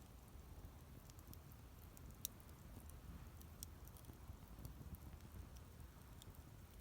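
Wood campfire burning with faint, scattered crackles and small pops over a low rumble, one slightly sharper pop a couple of seconds in.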